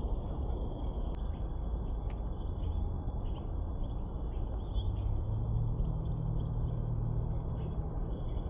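Small birds chirping repeatedly over a steady low rumbling noise, which takes on a low hum about halfway through.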